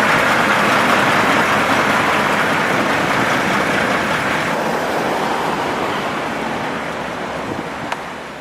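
Steady road noise from heavy vehicles in motion, a continuous hiss-like rush that slowly fades near the end.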